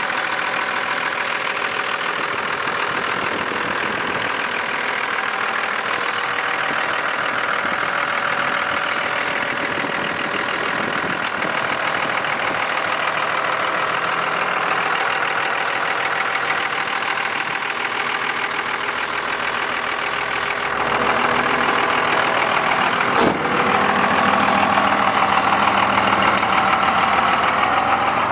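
2002 Dodge Ram's 5.9-litre Cummins inline-six turbo-diesel idling steadily under the open hood, getting a little louder about three quarters of the way through, with one sharp click shortly after.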